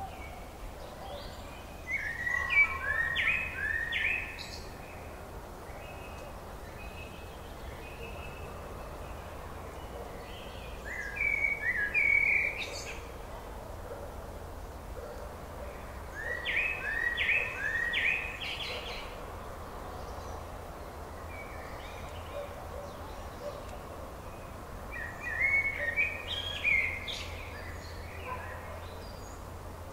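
A songbird singing a short phrase of quick, falling notes four times, several seconds apart, over a steady low rumble and hiss.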